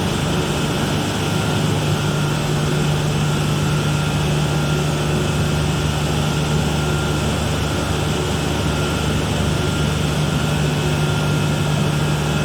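Pumping-station machinery running: a steady, loud drone with a strong low hum and faint steady tones above it, unchanging throughout.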